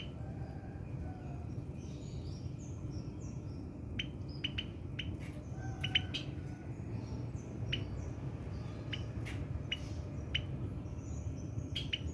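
Birdsong: short, sharp chirps at irregular intervals over a steady low hum, with a few faint low cooing notes from a spotted dove.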